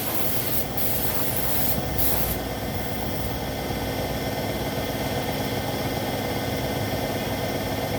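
A paint spray gun hissing in several short bursts over the first couple of seconds, as panels are sprayed. A steady machine hum with fixed tones runs underneath.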